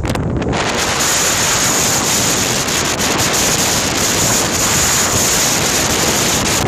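Steady loud rush of sea water. It starts sharply about half a second in and cuts off suddenly at the end.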